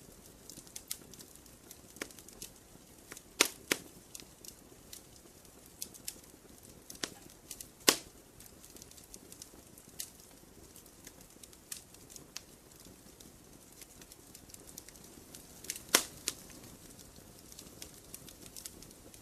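Campfire burning with a low hiss and irregular crackles and sharp pops of burning wood, the loudest pops a few seconds in, at about eight seconds and near the end.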